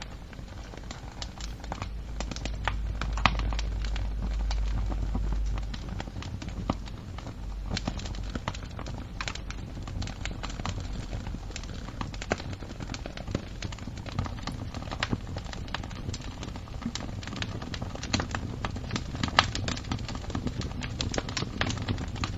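Wood fire crackling: irregular sharp pops and snaps over a steady low rumble, the rumble louder for a few seconds near the start.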